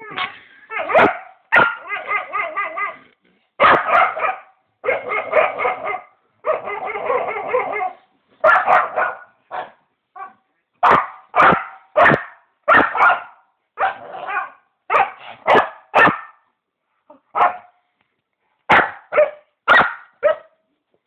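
A dog making a string of odd vocalizations: long, wavering drawn-out calls in the first part, then a run of short barks about once a second, with a brief pause before a last few barks.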